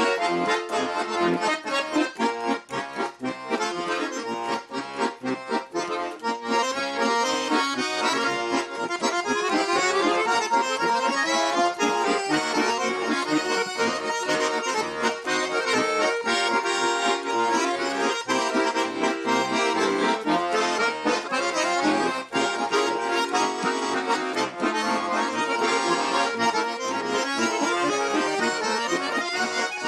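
Russian garmon (button accordion) playing a solo folk instrumental with quick, densely packed notes and chords.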